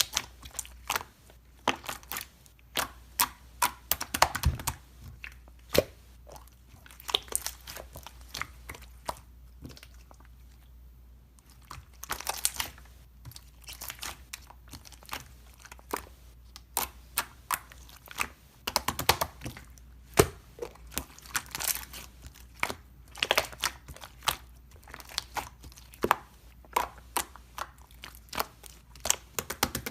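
Close, irregular crackling, crinkling and crunching clicks, as of something crunchy or crinkly being handled or squeezed right at the microphone, with a short lull partway through.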